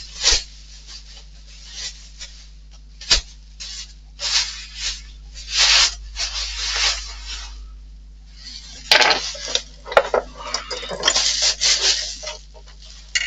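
Plastic packaging rustling in short bursts as it is handled, with a few sharp clicks and knocks from parts being moved.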